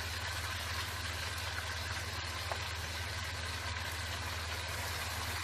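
Tomato-onion masala frying in oil in a pot, a steady sizzle over a constant low hum.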